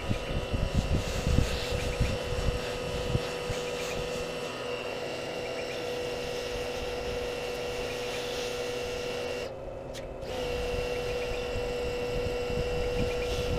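A small motor running with a steady hum and a constant whine. Low gusty rumbles come through in the first few seconds, and the sound dips briefly about ten seconds in.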